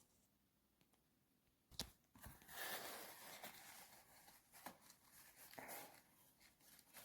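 Faint handling noise: a single light click about two seconds in, then soft rustling with a couple more light clicks as the jump starter pack and its case are handled.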